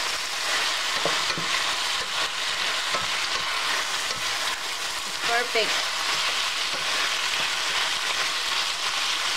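Beef strips and bell peppers sizzling in a hot stainless steel frying pan, stirred with a wooden spatula that knocks and scrapes against the pan now and then.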